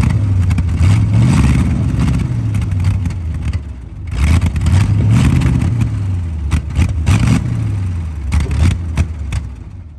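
1973 Corvette's V8 engine running and being revved, its pitch rising and falling in long swells with a brief dip about four seconds in, then dropping away near the end.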